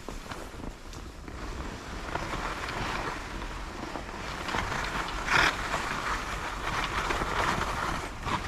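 Skis sliding and scraping over snow on a narrow trail: a steady hiss that grows louder about two seconds in, with a sharper scrape about five seconds in. Wind on the microphone.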